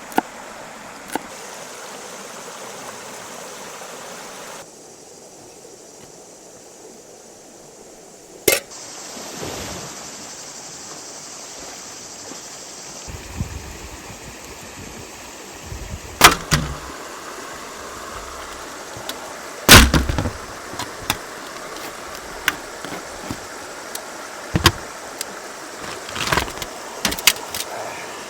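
Cookware and utensils giving a handful of sharp knocks and clacks, the loudest about twenty seconds in, over a steady rushing background.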